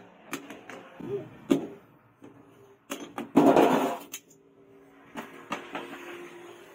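Metalworking on a bench: scattered clinks and knocks of metal tools and workpiece, then a harsh scraping burst of about a second, a little past the middle.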